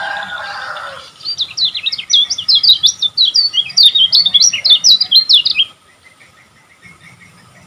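Lemon-bellied white-eye (kecial kuning) singing a loud, rapid burst of short sweeping high notes for about four seconds. A lower call comes before it in the first second.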